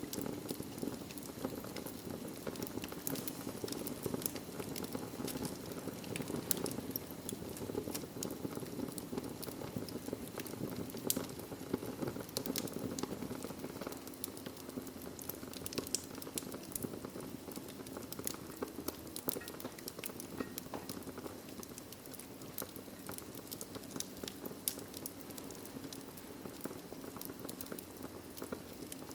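Wood fire crackling in a fireplace: many sharp irregular pops and snaps over a steady low rumble of the burning fire.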